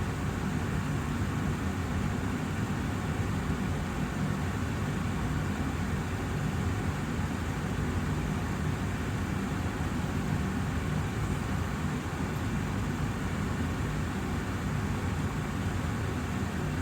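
Austin Air HealthMate air purifier's fan running steadily: an even rush of air with a low hum underneath.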